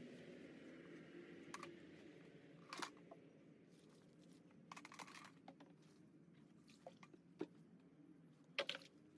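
Scattered light clicks and taps, about six irregular ones, with the loudest near the start and near the end, over a faint low hum.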